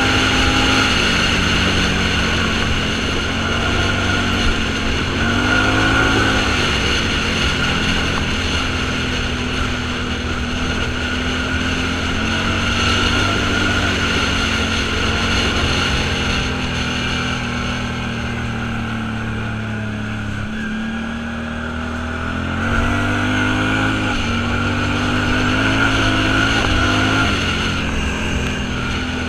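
Vehicle engine running under way, its revs rising and falling several times over steady road noise.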